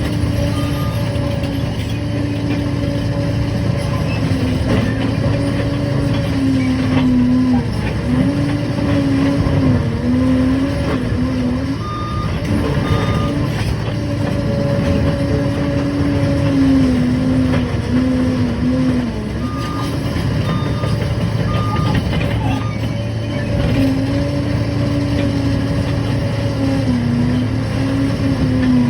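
Liebherr PR 746 bulldozer working, its diesel engine note rising and falling as the load changes. The reversing alarm gives short runs of high beeps a few times as the dozer backs up.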